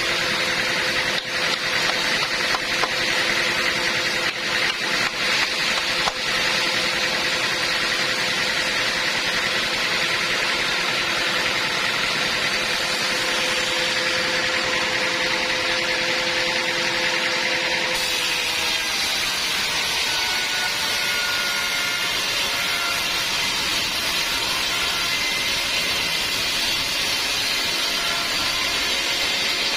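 Band sawmill running steadily, a continuous machine noise with a steady whine and a few knocks in the first few seconds; the sound changes abruptly about two-thirds of the way through.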